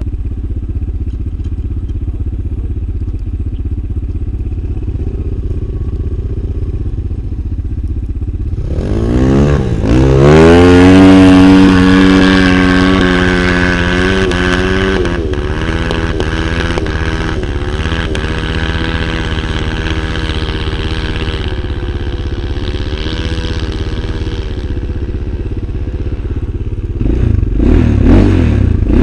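Motorcycle engine idling with a low rumble, then revved up hard about nine seconds in and held at high revs for several seconds. It then runs on at lower, varying revs, with another short burst of revving near the end.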